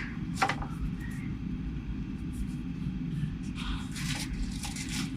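Steady low rumble of background noise, with a few short handling clicks and rustles.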